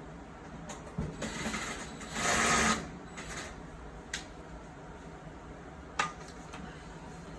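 Clothes dryer and its vent duct being handled: a knock, then a couple of seconds of scraping and rustling, then two sharp clicks.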